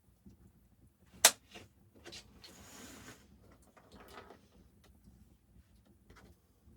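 Objects being handled: one sharp knock about a second in, then a brief scraping rustle and a few softer clicks.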